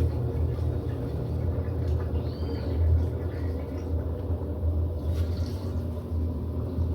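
Electrolux LED14 top-load washing machine running mid-cycle: a steady low motor hum that holds even throughout.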